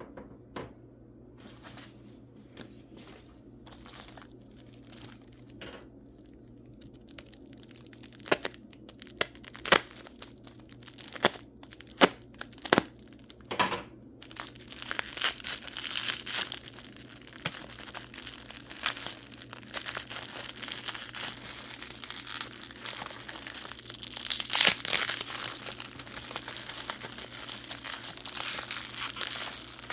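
Wrapping being crinkled and pulled off mineral specimens during an unboxing. It starts with scattered sharp clicks and knocks, then turns to continuous crinkling and rustling from about halfway through, swelling about three quarters of the way in.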